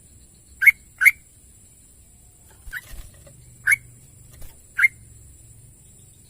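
Sooty-headed bulbul (trucukan) giving short, sharp call notes: a quick pair about half a second in, then three more spaced about a second apart, the middle one fainter. A faint steady high tone runs underneath.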